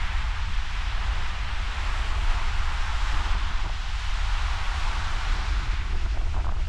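Ocean surf at a king tide, washing in a steady hiss, with heavy wind buffeting the microphone in a low rumble.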